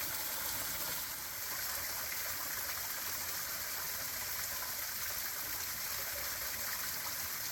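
Small, rain-fed cascading waterfall, about ten feet tall, with water running steadily down the rock.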